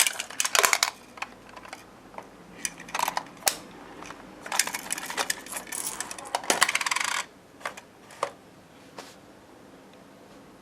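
Coins clinking and clattering in and around a battery-operated dog coin bank toy, in several bursts of rapid clicks over the first seven seconds, then a few single clicks.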